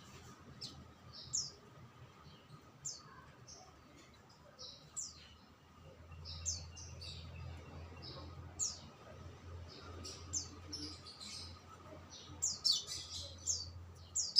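A songbird chirping repeatedly in short, high notes, coming faster and louder near the end, over a faint low hum.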